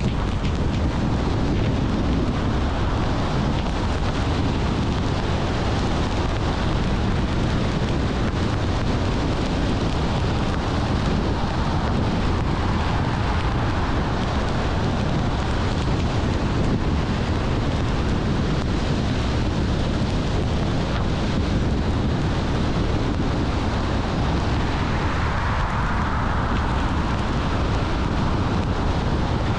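Car on the road: steady tyre and wind noise, heaviest in a low rumble. A broad hiss swells briefly near the end.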